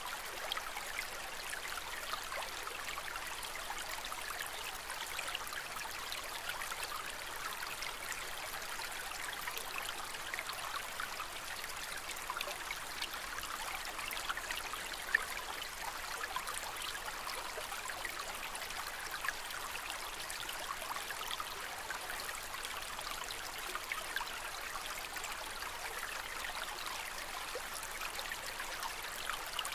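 Aquarium water trickling and splashing steadily, with many small drips scattered through it and one slightly louder splash about halfway through.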